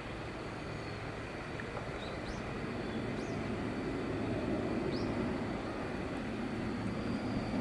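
Steady low outdoor rumble, swelling a little through the middle, with three brief faint high chirps.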